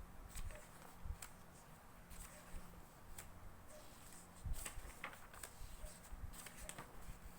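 Magazine pages being turned by hand: a series of short paper rustles and flicks, roughly one a second.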